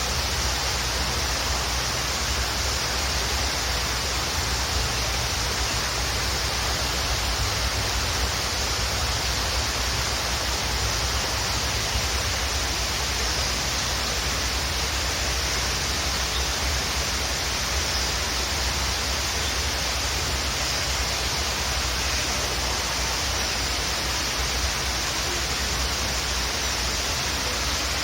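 Waterfall rushing: a steady, unbroken roar of falling water with a deep low rumble and a bright hiss.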